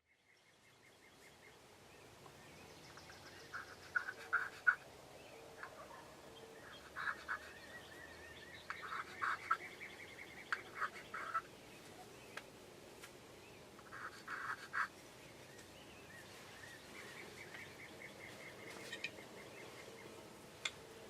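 Wild turkeys gobbling in the distance: about five rattling gobbles a few seconds apart, over faint background birdsong.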